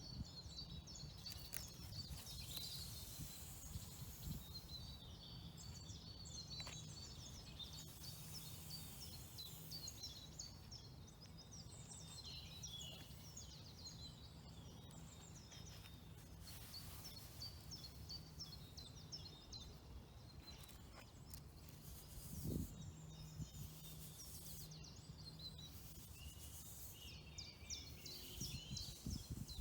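Faint woodland birdsong: birds chirping and trilling over a low steady rumble, with a soft thump about three-quarters of the way through.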